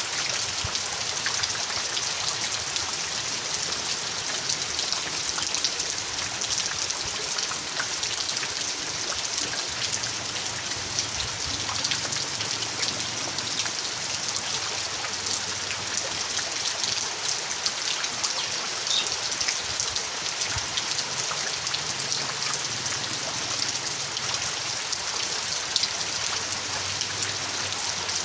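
Steady rain falling: an even, unbroken hiss with many individual drops ticking through it.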